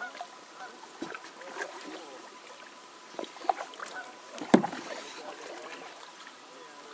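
Kayak paddling: water splashing with the strokes and a few sharp knocks of a paddle against the kayak, the loudest about four and a half seconds in.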